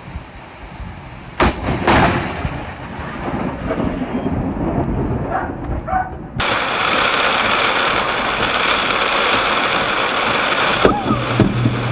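Close lightning strike: a sharp thunder crack about a second and a half in, a second crack right after, then rolling thunder. From about six seconds in, a steady hiss of heavy rain.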